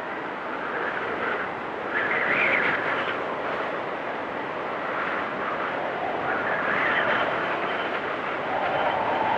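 Storm wind rushing steadily, with a whistling that swells twice, about two seconds in and again around seven seconds.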